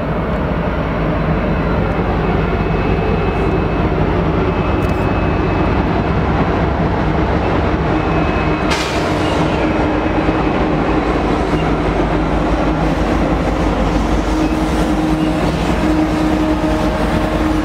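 Union Pacific diesel-electric locomotives passing slowly with a steady engine rumble, followed by passenger coaches rolling by on the rails. There is a sharp clank about nine seconds in.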